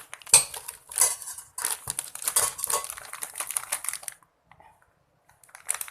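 Packaging rustling and small hard items clattering as they are handled and unwrapped. The run of clicks and crinkling stops a little after four seconds in, and a few more clicks come near the end.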